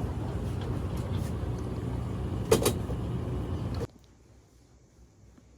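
Steady low traffic rumble and street noise, with a brief sharp pitched sound about two and a half seconds in. The noise cuts off abruptly at a cut to faint, quiet room tone.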